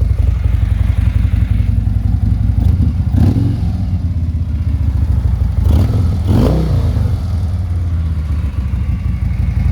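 Harley-Davidson Ultra Limited's Twin Cam 103 V-twin idling through Vance & Hines aftermarket exhausts with a lumpy, pulsing beat. The throttle is blipped twice, about three seconds in and again about six seconds in, each rev rising and falling back to idle.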